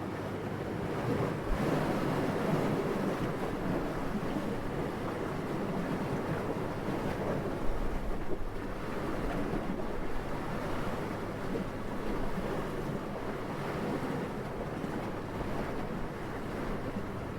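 Wind blowing steadily, a rushing noise that swells and eases in gusts, strongest about two and eight seconds in.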